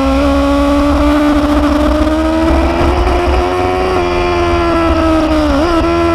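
Motorcycle engine running steadily at cruise, its pitch rising slowly and then dipping sharply and recovering near the end, over a low wind rumble.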